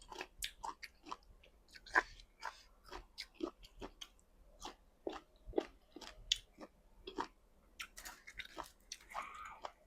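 A person chewing food close to the microphone, with irregular wet mouth clicks and small crunches one to three times a second.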